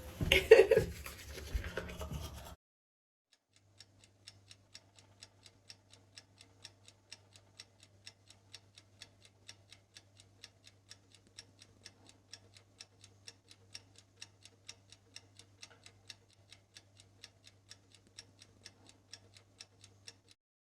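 A short loud sound at the start, then a second of dead silence. After that comes steady clock-like ticking, about three ticks a second and very even, over a faint low hum, stopping just before the end.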